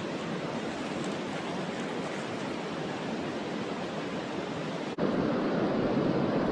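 Steady rush of river water mixed with wind. It breaks off for an instant about five seconds in and comes back louder.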